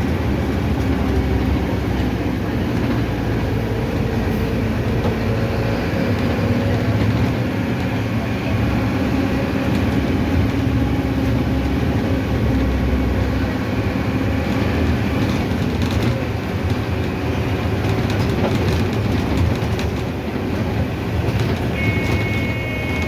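Mercedes-Benz OF-1519 city bus on the move: a steady engine drone with road rumble and rattling. Near the end a steady high electronic beep starts.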